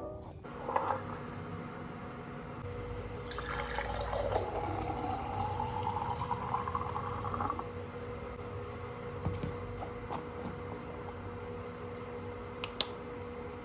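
Liquid being poured into a container, its pitch rising as the container fills, followed by a few light clicks and one sharp tick near the end. A faint steady hum runs underneath.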